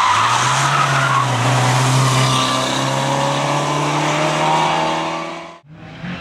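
Race car engine running hard and steady, with tyre and road noise. It cuts off suddenly about five and a half seconds in, and a different engine sound takes over.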